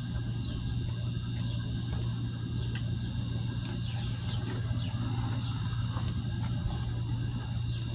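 A steady low hum with faint, short, high chirps scattered through it, typical of small birds calling outdoors.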